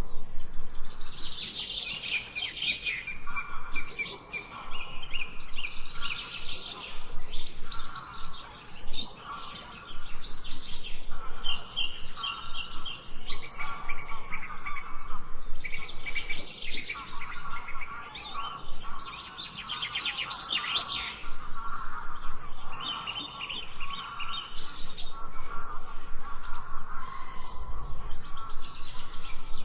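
Several songbirds singing at once: a dense, overlapping chorus of rapid high chirps and trills, with a lower warbling song running beneath.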